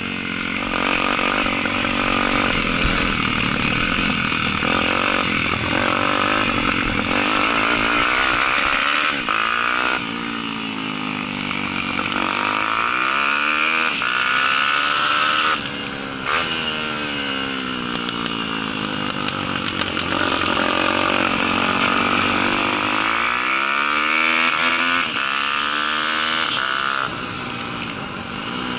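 Onboard sound of a Daytona 190 four-stroke single-cylinder pit bike engine at race pace, its revs rising and falling again and again as it accelerates and backs off, with a brief sharp drop in revs about halfway through.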